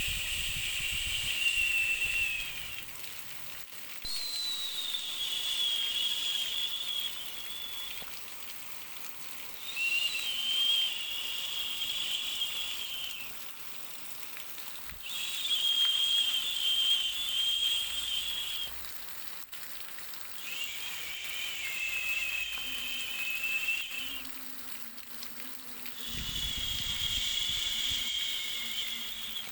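Soothing noise track for babies: a whistling hiss like a long 'shhh' swells and fades about every five seconds, six times, over a fainter steady hiss.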